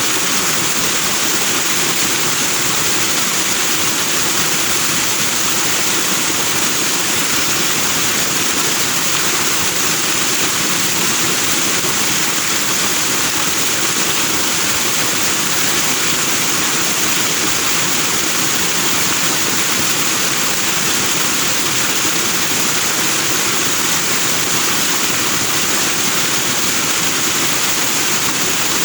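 Forest stream rushing over rocks in white foam, a steady loud water rush with no change.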